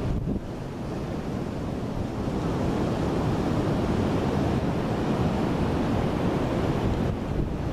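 Wind buffeting the microphone over the steady rush of surf on a beach. The noise grows louder over the first few seconds, then holds.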